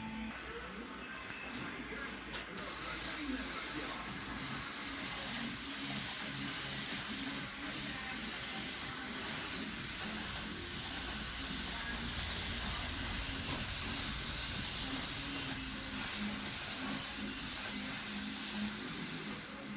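Paint being sprayed: a steady hiss that starts abruptly with a click about two and a half seconds in and stops near the end.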